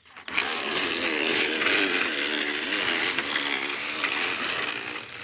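Plastic PET bottle rattling against a bicycle wheel's spokes as the wheel turns, giving a motorbike-like buzz. It starts suddenly, its pitch wavers up and down with the wheel's speed, and it fades near the end.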